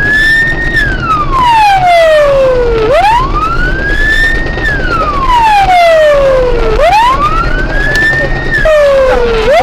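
Police car siren wailing in a repeating cycle: a quick rise in pitch, a brief hold at the top, then a slower fall, about every four seconds, over a steady low vehicle rumble.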